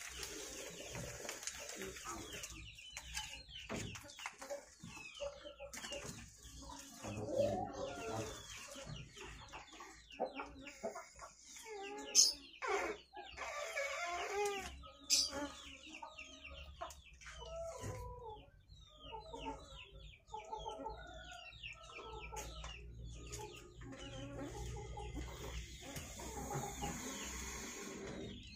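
Birds calling in many short, repeated pitched notes, with two sharp clicks about twelve and fifteen seconds in.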